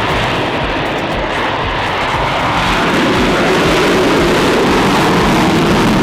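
Jet engines running with a loud, steady rushing noise that grows louder about halfway through.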